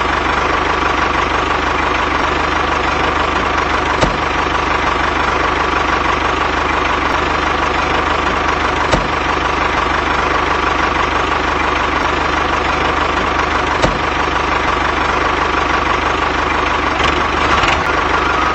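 Steady engine idling sound, running evenly, with a short click about every five seconds.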